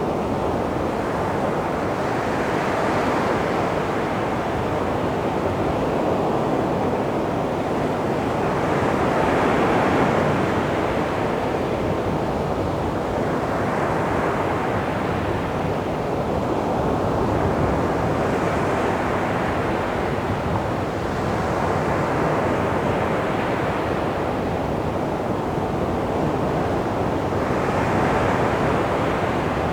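Calm sea waves washing onto a beach: a steady wash of surf that swells and eases about every five seconds as each wave breaks.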